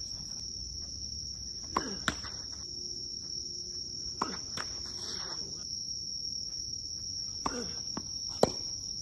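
Tennis ball struck with rackets a few times: sharp pops about two seconds in, twice close together, again near the middle and once near the end. Under them runs a steady high-pitched insect drone.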